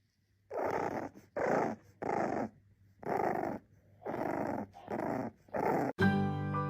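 An animal making seven short raspy, growl-like sounds in an uneven rhythm, about one a second. Plucked-string music cuts in abruptly near the end.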